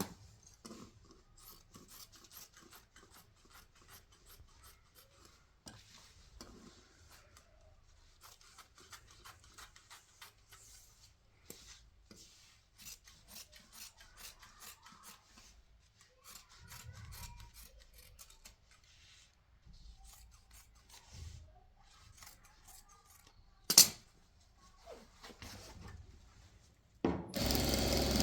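Irregular soft rubbing and scraping strokes, like hand work on a surface. There is a sharp loud click near the end, and a loud steady noise starts just before the end.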